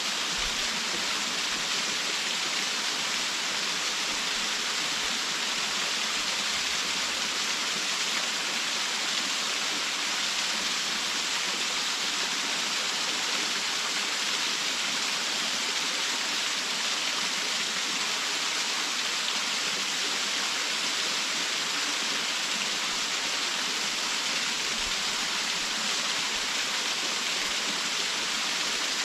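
Waterfall rushing steadily: an even, unbroken hiss of falling water, strongest in the upper range with little deep rumble.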